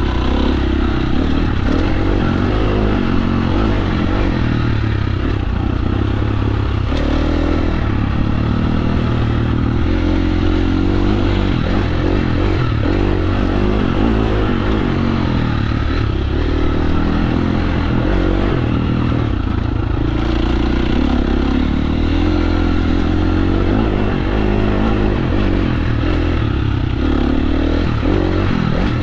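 KTM 350 SX-F dirt bike's single-cylinder four-stroke engine running under load while trail riding, its revs rising and falling over and over as the throttle is worked.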